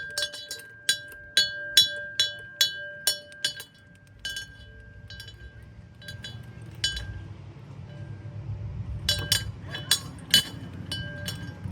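A ringing metal playground chime struck over and over, about two to three strikes a second for the first three seconds, then after a pause another quick run of strikes near the end; each strike leaves a steady bell-like tone hanging.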